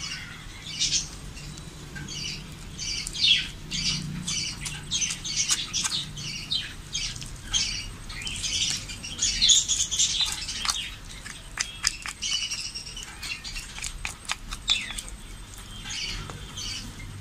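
Birds chirping and squawking busily and without a break, with scattered sharp clicks mixed in.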